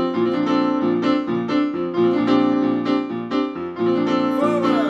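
Piano-style keyboard playing an instrumental passage of evenly repeated chords in a steady beat.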